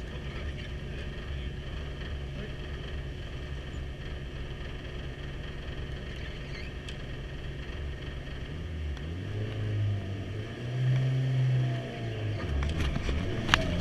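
Mitsubishi Evo's turbocharged four-cylinder engine idling steadily, then revved up and down several times from about eight seconds in. A sharp click near the end.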